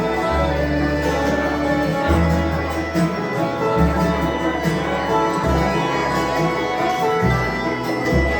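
Bluegrass band playing an instrumental break: plucked strings such as guitar and banjo over a bass line that changes note every second or two.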